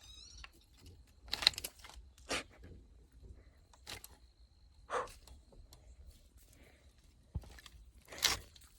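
Kittens scrambling about, with a string of brief scratching and rustling noises from their claws and movement, four or five of them louder than the rest. A faint high squeak sounds at the very start.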